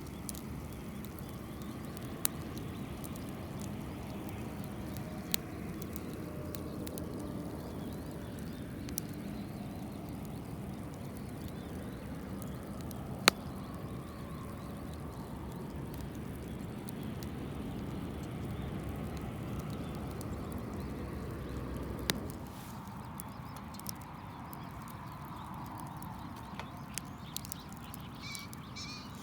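Campfire burning with a steady low rush and a few sharp, isolated pops of wood; the rush drops away abruptly about 22 seconds in, leaving fainter crackles.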